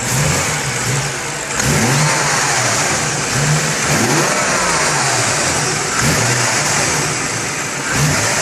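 BMW 435i's turbocharged inline-six engine being revved in a series of quick throttle blips, the revs rising and falling about every second from idle.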